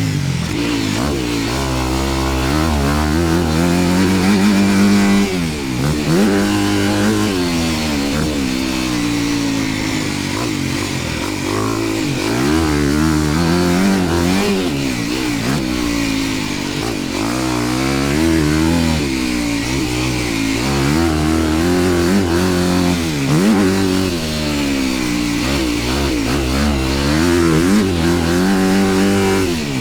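Dirt bike engine being ridden hard round a motocross track, revving up and dropping back over and over as the throttle is opened and closed through the corners and bumps.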